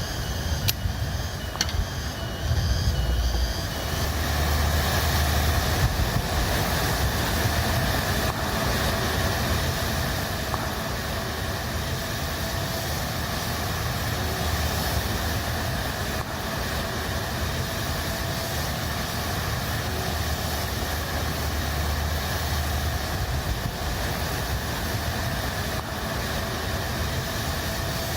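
Storm wind gusting with a deep low rumble, over a steady hiss of heavy rain.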